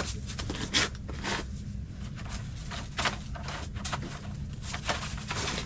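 Scattered knocks and clicks over a steady low hum, typical of handling fish and gear inside an ice-fishing shelter.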